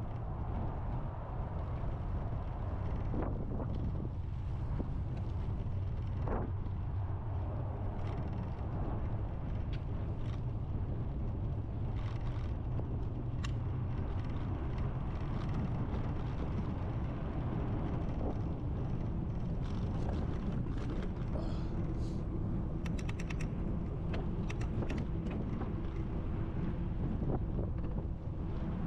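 Wind buffeting the microphone of a camera on a moving bicycle, a steady low rumble with ride noise. Scattered sharp clicks, and a quick run of them about two-thirds of the way through.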